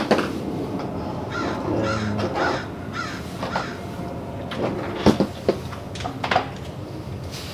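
A run of repeated harsh bird calls in the first half, then a few sharp clicks and knocks from handling the plastic door-mirror assembly being taken apart.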